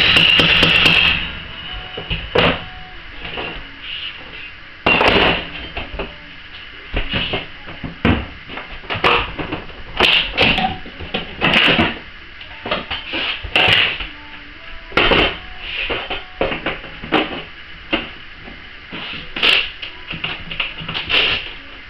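A tightly wedged laminate floor plank being worked loose and pried out: irregular knocks, clicks and snaps of the boards and tools, roughly one a second with short pauses.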